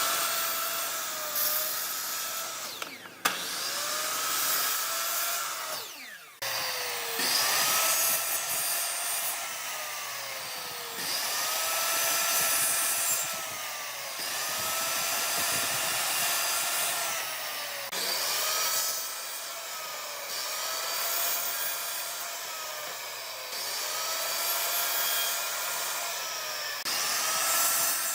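Handheld electric power tool working on wood, its motor pitch repeatedly rising and sagging every few seconds as the load on it changes. The sound breaks off abruptly about 3 and 6 seconds in.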